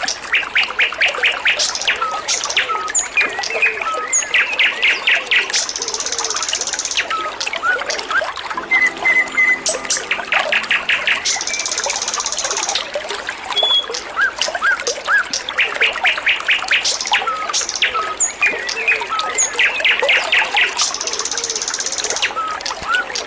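Wambi songbird singing busily: fast rattling trills, short up-slurred chirps and a buzzy high phrase, each recurring several times. Under it runs a steady trickle of flowing water.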